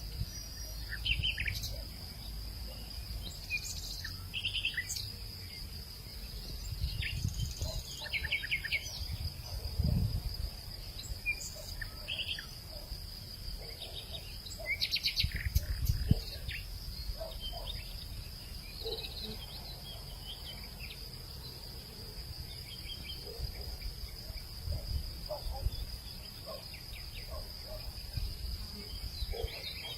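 Hillside afternoon ambience: a steady, high insect drone with scattered short bird chirps over it. Low gusts of wind rumble on the microphone, strongest about ten seconds in and again around sixteen seconds in.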